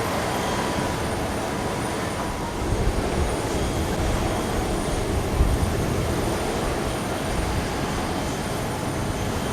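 Steady rumble of a Boeing 777-300 airliner with its Pratt & Whitney PW4000-series turbofans running, with a couple of brief louder bumps about three and five and a half seconds in.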